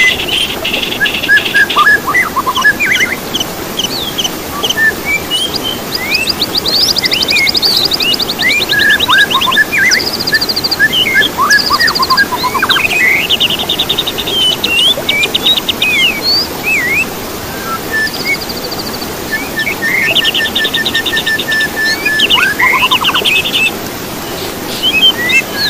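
Songbirds singing: a busy run of varied chirps, short whistles and fast trills, over a steady background hiss.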